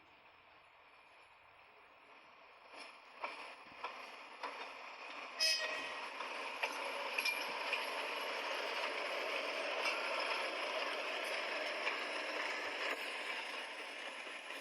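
A train running past on the tracks. The noise builds up, with several sharp knocks of wheels over rail joints, the loudest about five seconds in, then a steady rolling rush that fades near the end.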